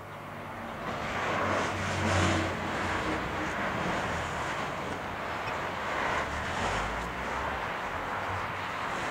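Airliner engine noise, a roar with a low rumble that swells over the first two seconds and then holds steady.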